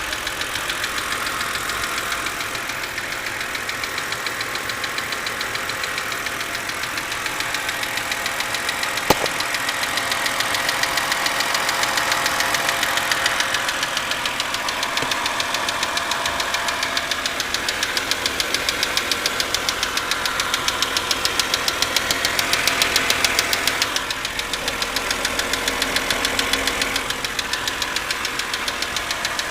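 2006 BMW 330i's straight-six engine running with a rapid, even ticking knock, the intermittent engine noise its owner is trying to track down and which sounds potentially serious. One sharp click stands out about nine seconds in.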